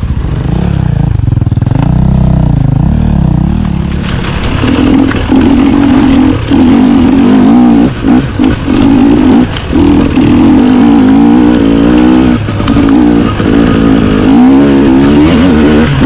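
Dirt bike engine running at low revs for the first few seconds, then held at higher revs under throttle from about four seconds in. Its revs drop briefly several times as the throttle is rolled off and back on.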